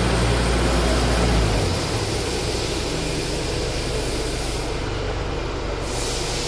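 Steady running noise of woodworking machinery, with a low hum that steps down about a second and a half in.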